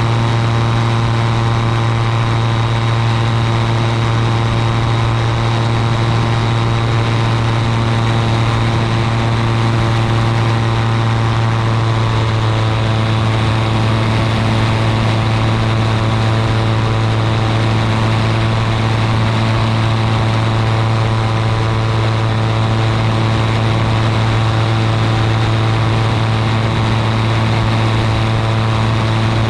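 Ultralight aircraft's engine and propeller running at a constant speed in flight, a loud, unchanging drone.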